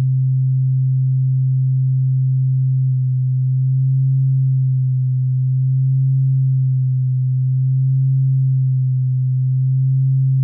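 Low sine-wave bass tone from a software synth's sine oscillator (Arturia Pigments Engine 1), held as one steady note. About three seconds in, a slow gentle wavering sets in, from a slow LFO lightly modulating its pitch.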